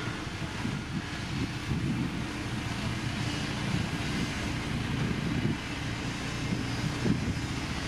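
Heavy construction machinery's diesel engine running steadily, with wind buffeting the microphone.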